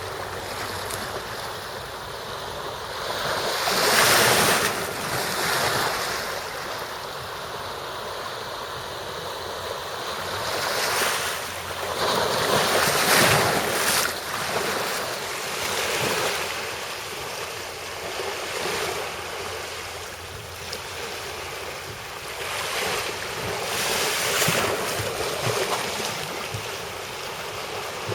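Sea waves washing ashore, the surf swelling and falling back every few seconds, with some wind.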